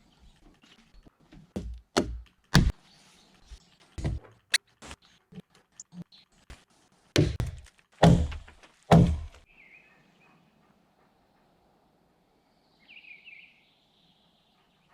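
A series of heavy wooden thunks, about eight irregular blows over nine seconds, the last three the loudest, consistent with hand tools striking timber during log-cabin building. It then goes quiet apart from a few bird chirps near the end.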